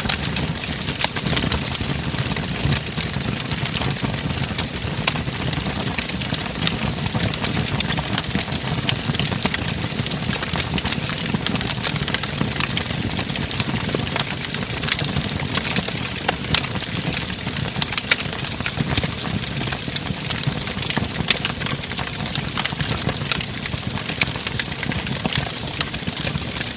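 Wood fire crackling in a fireplace: a steady low rumble of flames under many small, irregular pops and snaps.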